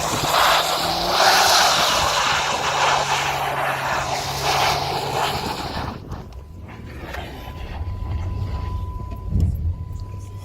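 Chrysler 300C Hemi V8 under power with a loud rushing hiss of tyres spinning and spraying snow. About six seconds in the hiss drops away, leaving the engine's lower, quieter rumble.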